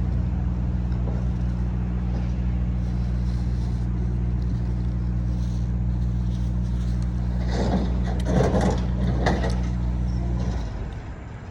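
A motor vehicle engine idling with a steady low hum, then cutting off abruptly near the end. Brief voices come in about eight seconds in.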